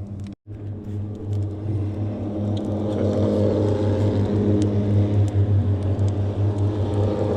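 Wood fire crackling, with scattered sharp pops, over a steady low engine-like hum that grows a little louder a few seconds in.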